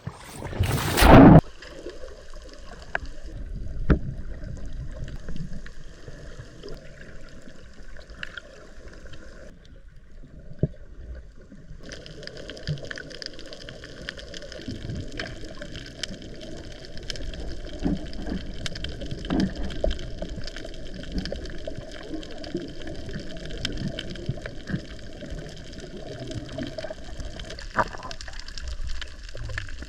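Water gurgling and sloshing over a steady low hum, with a loud burst of noise about a second in.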